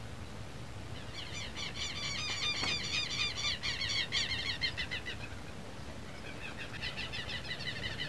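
A bird calling in two fast runs of harsh, repeated notes, several a second, the first starting about a second in and stopping about five seconds in, the second starting near the end.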